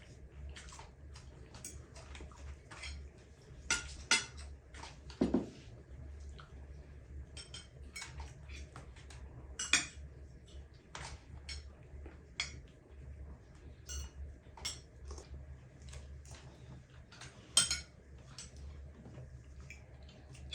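Cutlery and dishes clinking in irregular light taps, metal on plates, with a duller knock about five seconds in, over a steady low hum.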